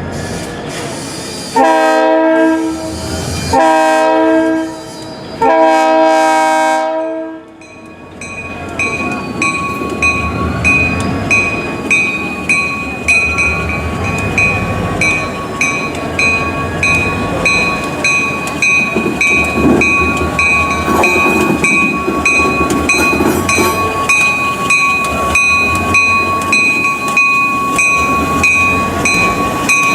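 Diesel locomotive sounds three long horn blasts one after another as it starts to move. Then its bell rings in a steady, even rhythm over the engine's running rumble.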